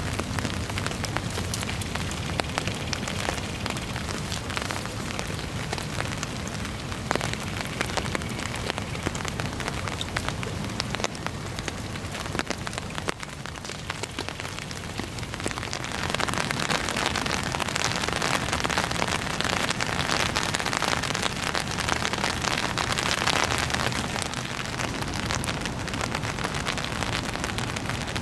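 Steady rain falling on open floodwater, with single drops ticking through the hiss; the rain gets louder a little over halfway through.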